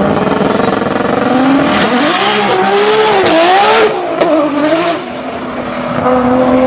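A performance car's engine is revved hard, with a high-pitched whistle that climbs steeply with the revs and then holds. About four seconds in the engine lets off, and it picks up again with a briefer rising whistle before settling to a steady run.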